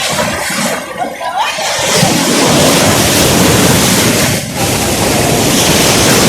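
Loud, steady rushing noise, like surf or wind on the microphone, setting in about two seconds in after a quieter start, with a brief dip about four and a half seconds in.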